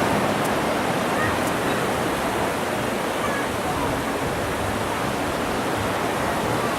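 Ocean surf washing up the beach, a steady rushing noise.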